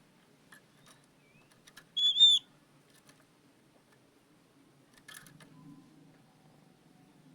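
Oriental magpie-robin calling: one loud, short whistled note about two seconds in, then a harsher chirp about five seconds in, with faint scattered clicks between.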